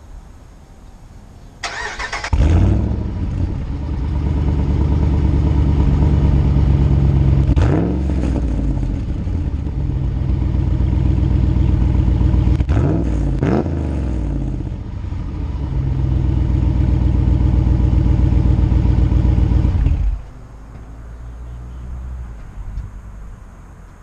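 2016 Ram 1500's 5.7 L Hemi V8 with the muffler deleted and the resonator kept. The exhaust is started about two seconds in and settles into an idle, with one quick rev and then two short revs in a row. It shuts off near the end.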